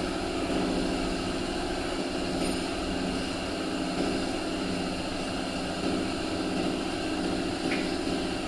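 A steady machine drone with no change in pitch, typical of workshop machinery running in an auto body shop.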